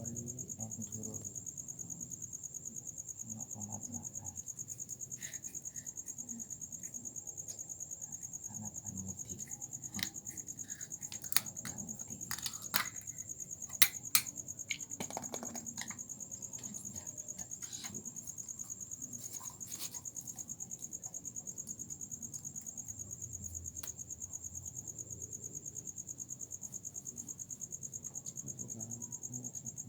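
Cricket chirping in a steady, fast high-pitched trill, with a few sharp clicks or taps near the middle.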